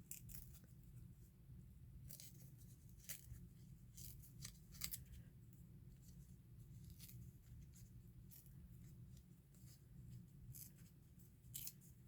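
Faint, scattered crisp snips and rustles of book-page paper being cut and handled at a craft table, a few at a time with pauses between, over a low room hum.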